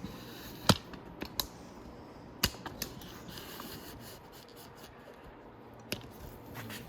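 Handling noise: a handful of scattered sharp clicks and knocks, the loudest about a second in, over a steady low hiss. The motorcycle's engine is not running.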